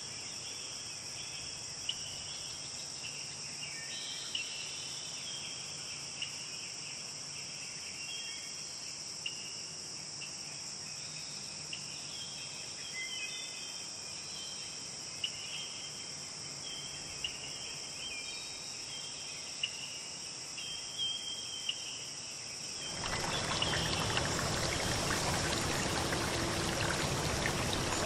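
Steady high-pitched insect chorus, like crickets, with scattered short chirps over it. About 23 seconds in it cuts abruptly to the louder, steady rush of running water.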